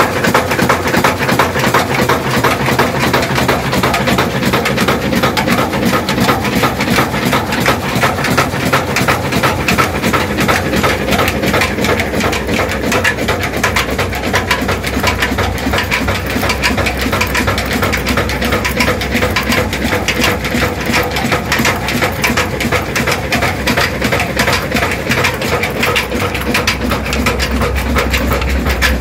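A hundred-year-old stationary engine driving a flour mill, running steadily with a rapid, even clatter. A deeper rumble swells near the end.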